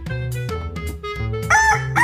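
A rooster crowing, starting about one and a half seconds in, over background music.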